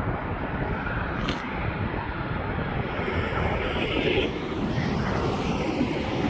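Airplane engines running steadily as an aircraft passes, their hiss growing about halfway through, with gusty crosswind rumbling on the microphone.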